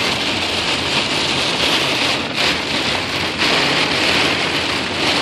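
Heavy rain on a car, heard from inside the cabin as a steady hiss.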